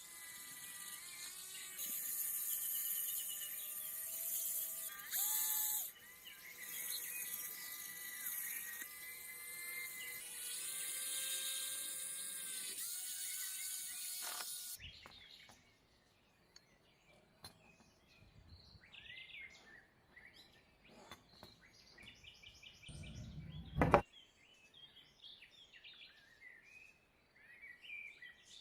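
A small high-speed motor whines steadily with a hiss, shifting pitch slightly now and then, and stops after about fifteen seconds. Faint scattered small handling sounds follow, with one sharp click near the end.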